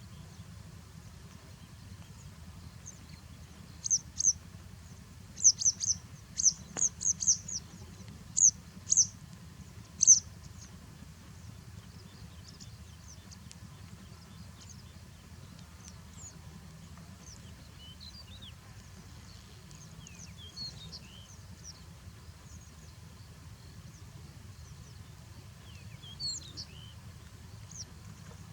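Birds chirping: a run of about a dozen short, high, sharp chirps starting about four seconds in, then fainter, scattered chirps over a steady low rumble.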